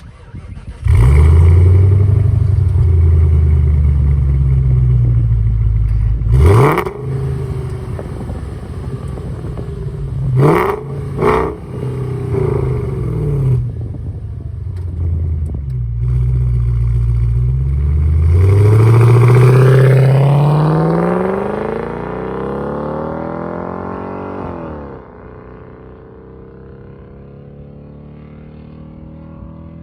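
Volkswagen Touareg V8 with straight-piped exhaust, loud and unmuffled: it starts about a second in and runs at a fast idle, then gets several short, sharp throttle blips. Near the end it gets one longer rev that rises, holds and falls away, and it settles to a quieter idle.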